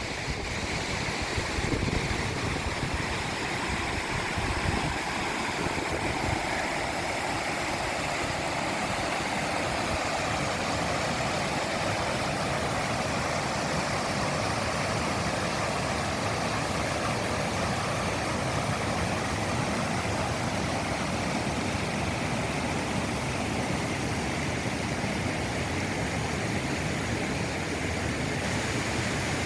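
Steady rushing of running water, such as a creek or small waterfall, with wind buffeting the microphone in the first few seconds.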